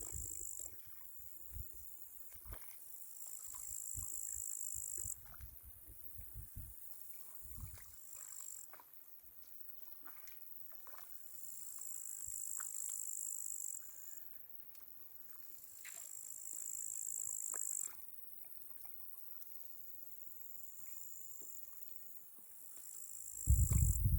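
Crickets trilling high and steady in on-and-off bouts of a few seconds each. Soft low thumps come in the first several seconds.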